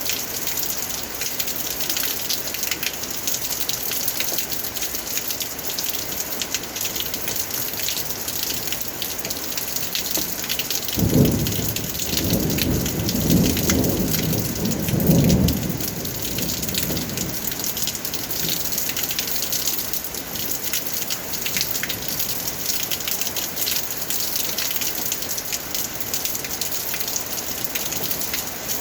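Steady rain pattering down. A low rumble of thunder rolls in about eleven seconds in and lasts about five seconds, swelling near its end before fading.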